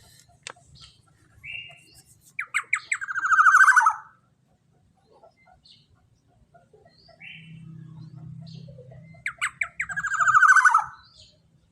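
Black-naped oriole (kepodang emas) calling: two harsh rattling phrases about seven seconds apart, each opening with a few separate sharp notes that run into a fast rattle. Short single notes come between the phrases.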